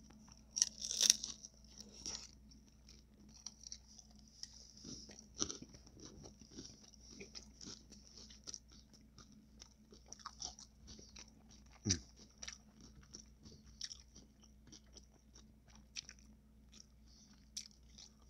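Tacos being bitten and chewed close to the microphone: many short, sharp clicks and crackles of eating, the loudest bites about a second in and about twelve seconds in.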